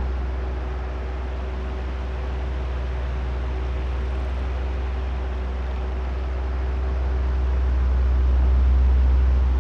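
Oscillating electric fan running: a steady low motor hum under the even rush of air from the blades, slowly swelling and fading as the fan head turns back and forth, loudest near the end.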